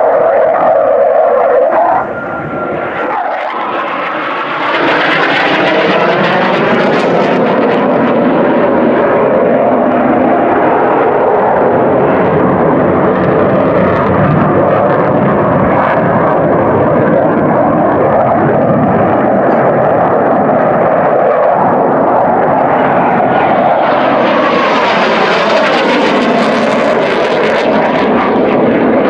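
Airplane engine running loud and continuous, dipping briefly about two seconds in, then swelling brighter and hissier near the end as the aircraft passes.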